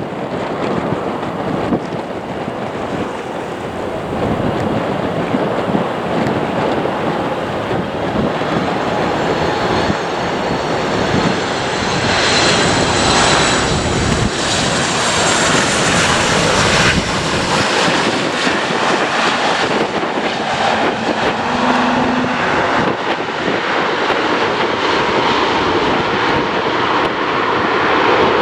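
Jet airliner engines running, a dense roar that swells and holds loud from a little under halfway through, with a high thin whine heard over it in the middle stretch.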